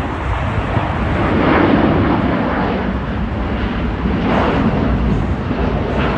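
Steady rumble of jet airliners at the airport, with wind buffeting the microphone, swelling twice.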